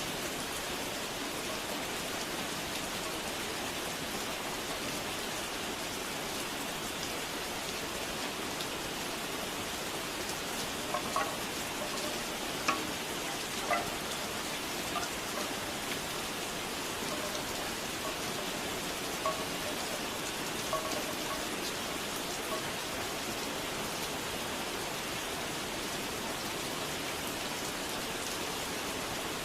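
Steady rain falling, with bamboo wind chimes giving a few scattered hollow knocks, clustered a third of the way in and again past the middle.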